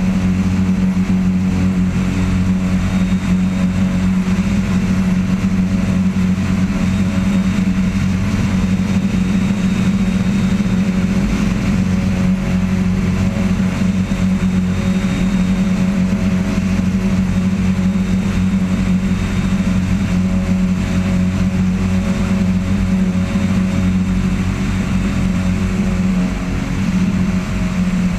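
Cessna 172XP's six-cylinder Continental engine and propeller running steadily as a loud, even drone during takeoff, easing off slightly near the end.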